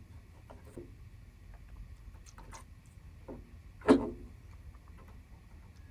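Faint small clicks and handling sounds of a rubber fuel line being worked onto a small-engine carburetor, with one brief louder sound about four seconds in.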